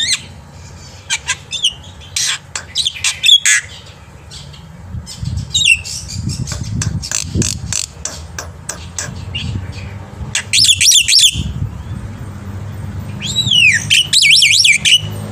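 Black-winged myna (jalak putih) singing vigorously: a rapid string of sharp clicks and chattering notes, a harsh squawking burst about two-thirds through, then looping whistles that rise and fall near the end.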